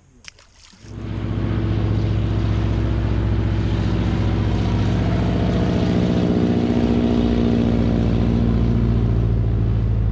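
Boat outboard motor running steadily, coming in suddenly about a second in.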